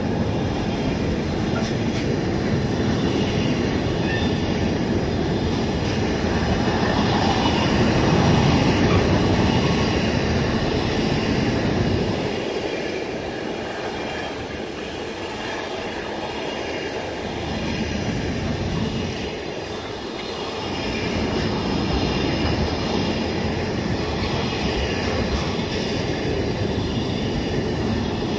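Intermodal container freight train passing close by, its flat wagons and wheels running over the rails in a steady, continuous rumble. It is loudest about eight seconds in and eases slightly after about twelve seconds before building again.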